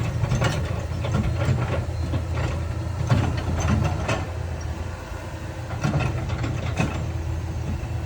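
Heavy diesel earthmoving machinery running steadily with a deep low engine rumble, broken by irregular metallic clanks and knocks, several of them in a few seconds.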